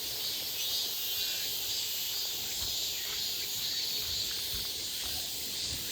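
A chorus of summer insects, cicadas and crickets, buzzing and chirring steadily at a high pitch without a break.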